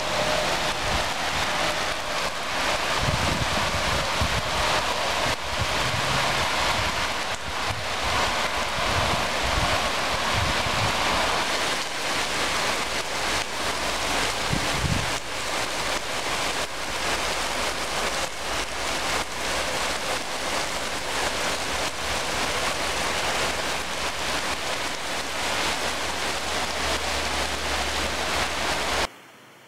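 Heavy rain pelting an asphalt road and grass in a thunderstorm cloudburst: a dense, steady hiss of countless drops splashing, with a few low rumbles. It cuts off suddenly near the end.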